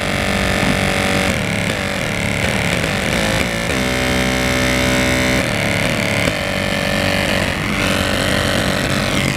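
Small cheap Ocean Sound speaker driven far past its limit by a woofer amplifier, blaring a loud, heavily distorted buzz whose pitched tones change every second or two.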